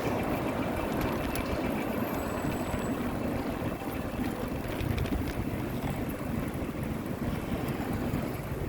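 Steady low rushing noise of riding a bicycle along a road: wind on the microphone mixed with road noise.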